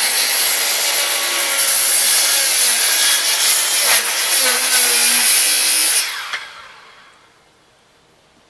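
Electric circular saw cutting through a wooden box, running loud and steady under load for about six seconds, then released and spinning down.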